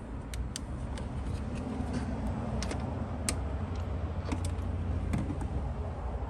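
Irregular light metallic clicks and clinks of hand tools working on a spark plug in the engine bay, over a steady low rumble.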